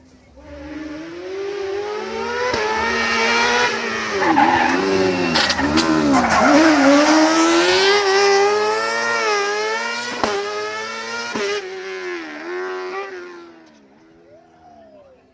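A rally car's engine approaching and passing at full effort, its pitch climbing and dropping again and again with throttle and gear changes, with several sharp cracks along the way. It builds up over the first few seconds and fades after about 13 seconds.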